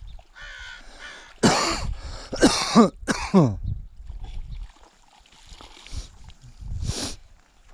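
A person coughing hard: three loud coughs in quick succession with a falling voice, and one more cough about seven seconds in.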